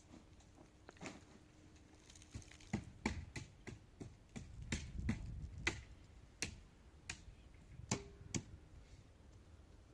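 A series of irregular sharp clicks and knocks, hard objects striking one another, with a low rumble underneath between about three and six seconds in.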